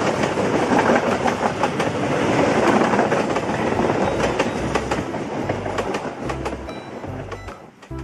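Passenger train's economy-class coaches rolling past close by: a steady rushing rumble of wheels on rail with a quick clickety-clack over the rail joints, growing quieter through the second half as the train moves away.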